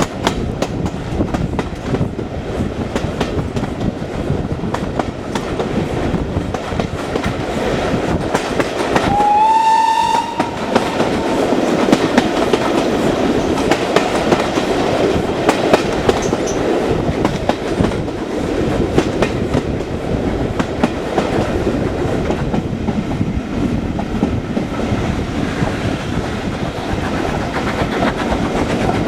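Swanage Railway heritage train running, its wheels rumbling and clicking over the rail joints. About nine seconds in, the locomotive's whistle sounds once, rising into one steady note for about a second.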